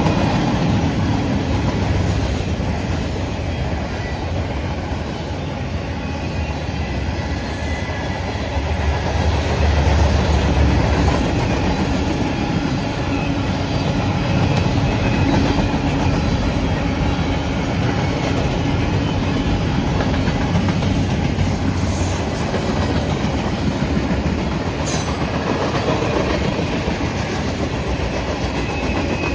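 CSX freight train rolling past close by: a steady rumble with the clickety-clack of wheels over rail joints, and a few short high-pitched wheel squeals now and then.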